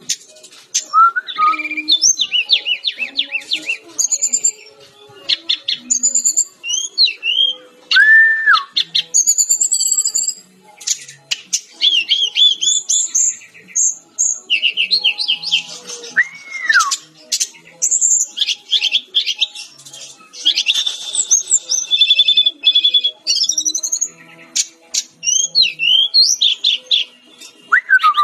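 A sikatan-rimba dada-coklat (SRDC), a Cyornis jungle flycatcher, singing nonstop in a rapid, varied stream of chirps, fast trills and sharp slurred notes, with a few lower, drawn-out slurred whistles mixed in.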